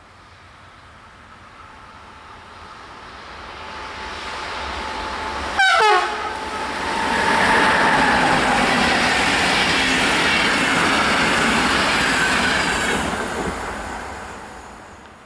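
Siemens Vectron electric locomotive hauling a passenger train, approaching and passing at speed. A brief horn blast drops sharply in pitch as it goes by about six seconds in. The coaches' wheels rush past for several seconds, then fade away.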